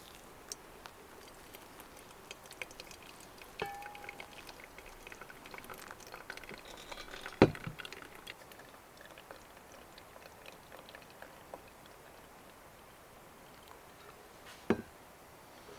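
Quiet handling of camp coffee gear: small clicks and taps, a short ringing tone about four seconds in, and two sharp knocks, one midway and one near the end.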